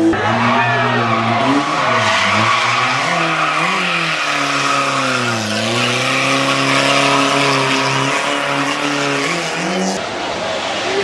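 Hillclimb race car engine running hard, its pitch falling and rising again several times as the car goes through corners. The sound changes abruptly near the end.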